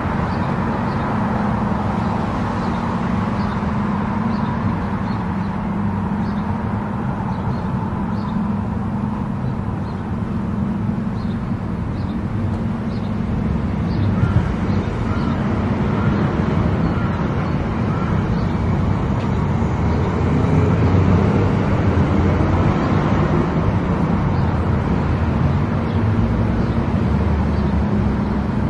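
Car driving at highway speed: steady tyre and road noise with a low engine drone, and a faint regular ticking in the first half.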